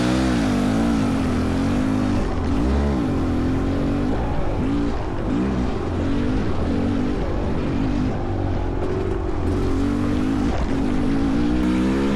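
Dirt bike engine running under load on a trail ride, its revs rising and falling over and over as the throttle is worked.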